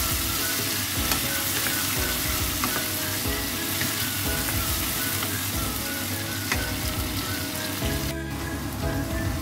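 Tomato chunks and fish balls sizzling in a nonstick frying pan while a wooden spatula stirs them, with a few sharp knocks of the spatula against the pan.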